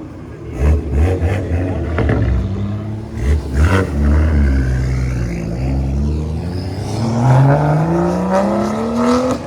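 Car engine revving hard, with several sharp pops in the first few seconds, then climbing steadily in pitch as it accelerates before stopping suddenly.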